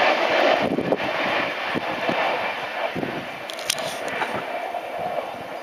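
JR Kyushu 813-series electric multiple unit moving away after passing through, its wheels-on-rail running noise fading steadily.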